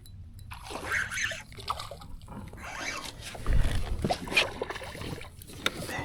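A small fish splashing at the kayak as it is landed and handled, with scattered clicks and knocks and a louder low thump about three and a half seconds in.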